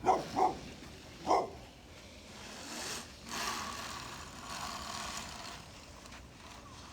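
A dog barks three short times in the first second and a half. After that comes a steady, fainter running sound from the dirt bike's engine, away from the microphone.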